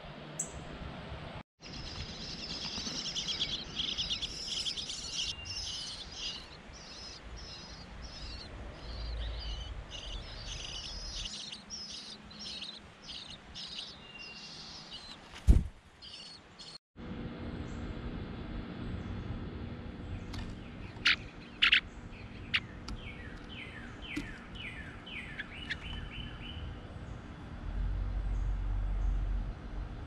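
Small birds chirping: a fast run of high, repeated chirps through the first half, then, after a sharp click, two sharp high notes and a quick falling series of chirps. A low rumble comes in near the end.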